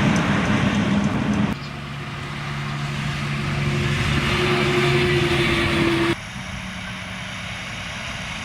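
Heavy trucks driving past on a road, in short clips joined by abrupt cuts about one and a half and six seconds in. In the middle clip a truck's engine hum grows louder as it approaches.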